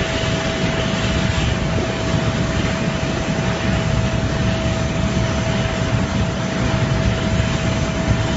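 Steady aircraft engine noise: a constant low rumble with a steady whine over it.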